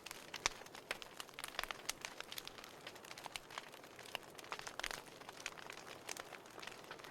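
Wood fire crackling in a fireplace: irregular snaps and pops over a soft hiss, with one sharper pop about half a second in.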